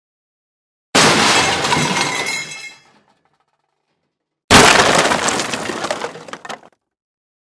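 Dishes smashing twice: a sudden crash about a second in whose pieces ring as it dies away, then a second crash about three and a half seconds later that trails off in scattering shards.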